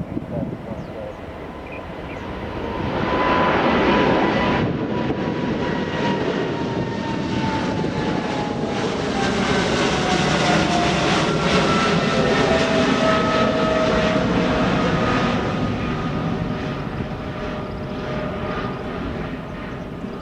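Airliner's jet engines passing close by, swelling to a loud rumble about three seconds in, with a whine that falls slowly in pitch as the plane goes past.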